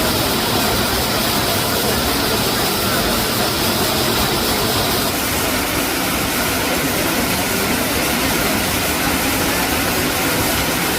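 Waterfall rushing: a loud, steady roar of falling water, with a brighter hiss in it that stops about five seconds in.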